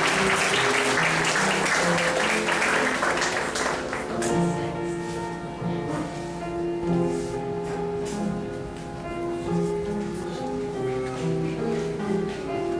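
Audience applauding for about the first four seconds over piano music; the piano then plays on alone.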